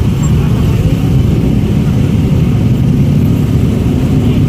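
Motor vehicle engines running in road traffic: a loud, steady low rumble.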